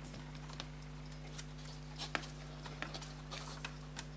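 Light, irregularly spaced clicks and taps from small watch parts and tools being handled on a watch repair bench, over a steady low hum.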